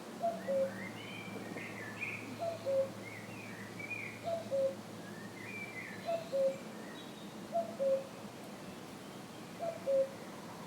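Common cuckoo giving its two-note "cuck-oo" call, a higher note followed by a lower one, repeated about every two seconds, six times. Other small birds chirp faintly through the first half.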